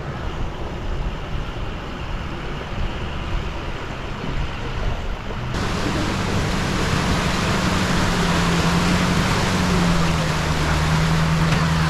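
Fast, deep river water rushing steadily, with no words. About halfway through, the sound abruptly turns louder and brighter, with a steady low hum under it.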